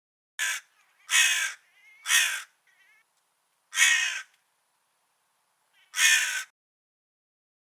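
Crow cawing: five harsh caws, a short one first, two more close together, then two further caws spaced about two seconds apart.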